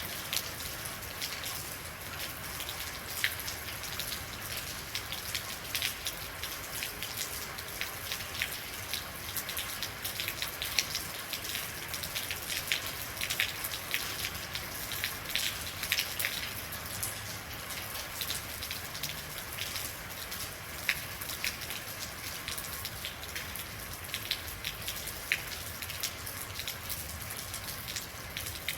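Real rain falling steadily: an even hiss with many separate drops ticking sharply on a hard surface.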